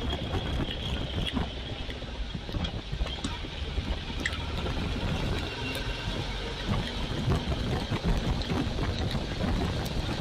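Royal Enfield Classic 350's single-cylinder engine running steadily while the motorcycle is ridden, with wind buffeting the camera microphone.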